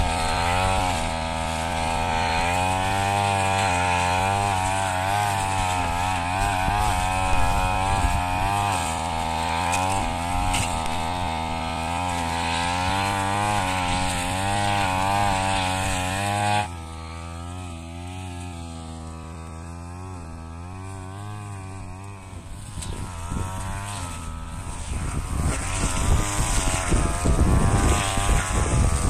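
Brush cutter engine running at high revs with a wavering pitch while clearing dry rice straw. About two-thirds through, it suddenly drops to a lower idle, then revs back up and runs rougher and louder near the end.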